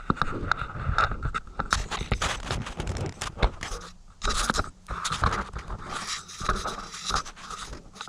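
Anchor-pole line being handled and pulled through its pulley and eyelets: irregular scraping, rubbing and clicking from the rope and the fittings.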